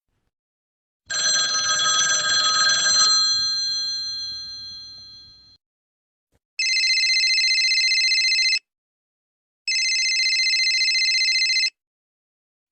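A ringing sound of several steady tones fades away over about four seconds. Then a trilling telephone bell rings twice, each ring about two seconds long with a second's pause between.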